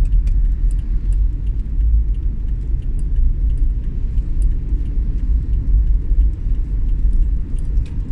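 A vehicle on the move, heard as a steady low road rumble with faint scattered ticks.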